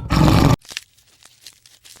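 A loud, rough animal call that cuts off abruptly about half a second in, followed by faint crackling and rustling clicks.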